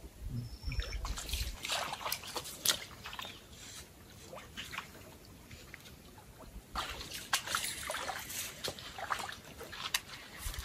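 Water splashing and sloshing against a small fishing boat, in two spells with scattered knocks and clicks and a few low thumps at the start.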